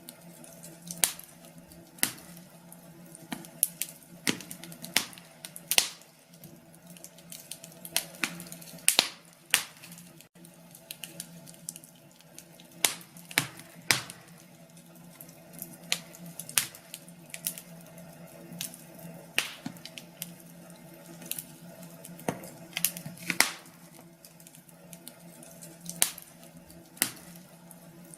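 Wood fire crackling in a fireplace: irregular sharp pops and snaps, several a second, over a faint steady hum.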